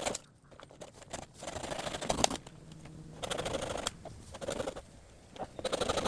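Hand saw cutting through bamboo in rasping back-and-forth strokes, several strokes with short pauses between them.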